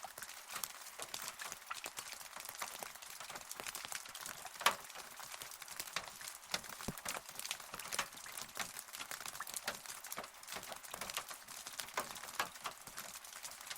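Rain falling steadily: a constant hiss with many close drops tapping sharply on a surface, one louder drop about a third of the way in.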